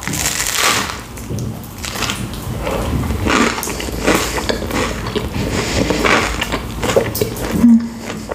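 Close-up mouth sounds of someone biting into and chewing a crisp hot toasted sandwich: irregular crunches and chewing, with a brief hum near the end.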